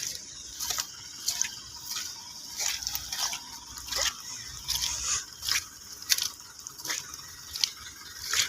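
Footsteps squelching in thick wet mud: short sucking, wet clicks at about a walking pace, one to two a second.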